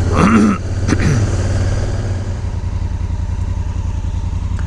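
Honda Africa Twin's parallel-twin engine running steadily at low road speed, with a brief noise and a click in the first second.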